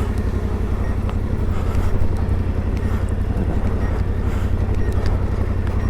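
Yamaha Ténéré 700's parallel-twin engine running steadily while the motorcycle rides down a path, with wind noise on the rider's microphone.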